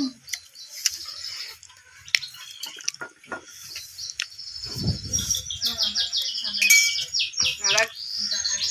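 A small bird chirping a fast run of repeated high notes over the second half, with scattered light clicks from plates being handled.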